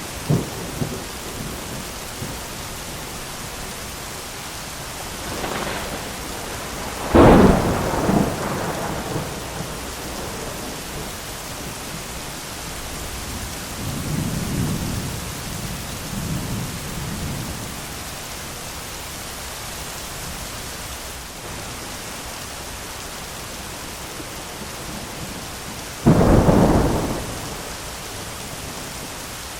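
Thunderstorm: steady rain hiss with rolling thunder. Two sharp, loud thunderclaps, one about a quarter of the way in and one near the end, each rumbling on for a second or two, with softer distant rumbles between them.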